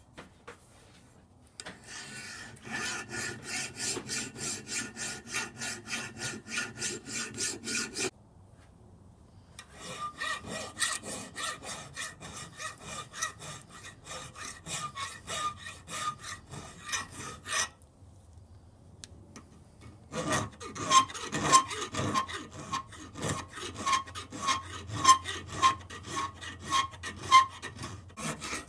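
Hand file rasping back and forth across the cast-metal parts of antique grass trimmers, taking down casting marks and pitting. It comes in three runs of quick, even strokes with short pauses between, and a faint metallic ring on each stroke in the later runs.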